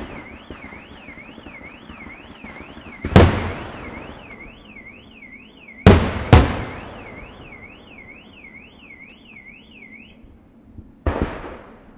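Aerial firework shells bursting with loud bangs: one about three seconds in, two in quick succession around six seconds, and one near the end, each dying away. Under them an electronic alarm tone warbles up and down, about two and a half sweeps a second, and stops about ten seconds in.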